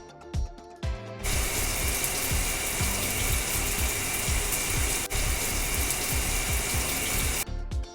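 Background music with a steady beat. About a second in, a loud, steady hissing sound effect starts over the music, then cuts off suddenly near the end.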